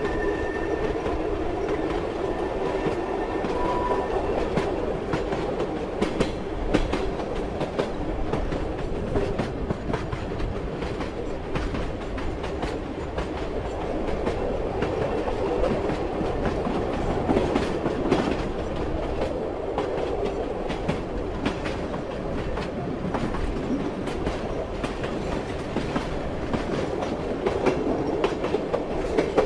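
Train wheels running on rails: a steady rumble with irregular clicking and clattering over the rail joints. A faint high tone sounds in the first few seconds.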